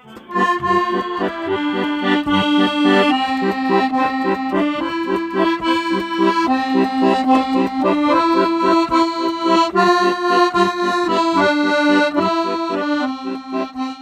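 Accordion music: a tune of held chords that change every second or so over a steady, pulsing bass rhythm.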